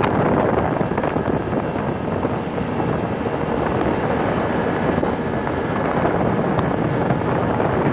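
Bass boat under way, its outboard motor running steadily beneath heavy wind noise on the microphone.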